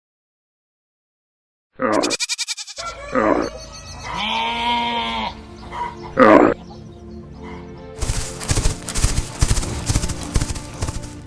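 Several animal calls with wavering pitch, starting about two seconds in after a short silence, followed by about three seconds of dense clattering noise near the end.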